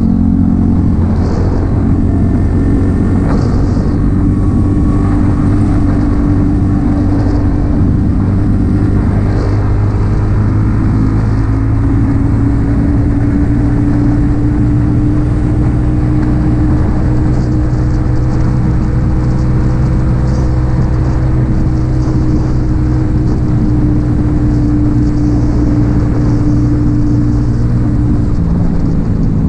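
Yamaha XSR 155's single-cylinder engine through an M4 aftermarket exhaust, running steadily under way with its note slowly rising, then dropping in pitch near the end.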